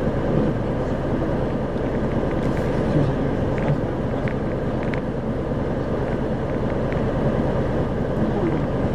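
Isuzu 2RG-LV290N4 city bus heard from inside while under way: a steady diesel engine and road noise, with a few brief rattling clicks in the middle.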